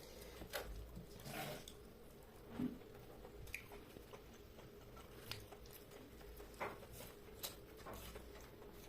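Faint eating sounds of a person chewing a mouthful of chicken curry and rice, with scattered small clicks and wet mouth noises over a faint steady hum.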